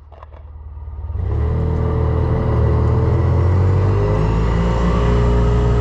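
Ranger utility vehicle's engine, quiet at first, coming up about a second in and running steadily, its pitch rising slightly as the vehicle gets under way.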